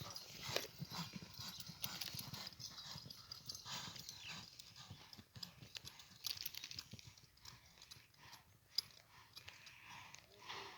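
Horse hooves stepping and shuffling on the ground in an irregular run of knocks.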